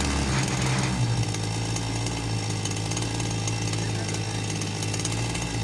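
String-trimmer engine powering a homemade boat outboard, running steadily under throttle; its note shifts about a second in, then holds steady.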